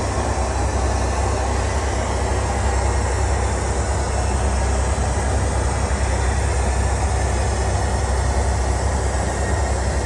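Steady rumble and rushing air-and-engine noise heard inside the cabin of a Boeing 757-200 airliner.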